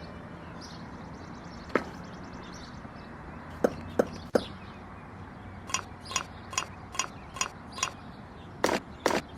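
Sharp taps and knocks on a hard object. There is a single knock early, three hard knocks in quick succession about four seconds in, then a run of about seven evenly spaced, slightly ringing clinks, two or three a second. Louder strikes follow near the end.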